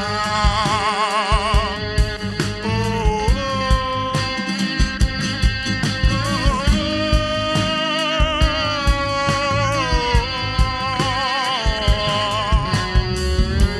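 Live rock band playing an instrumental passage: a sustained lead melody with wide vibrato and sliding pitches over a steady drum beat and bass.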